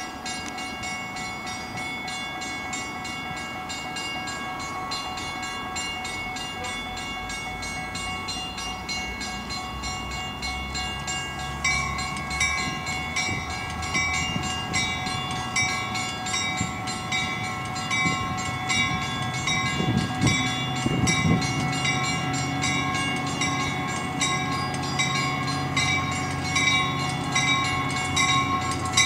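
Metra commuter train, led by a cab car, drawing slowly into the station, its low rumble growing louder as it nears. A bell rings steadily over it, pulsing more plainly in the second half.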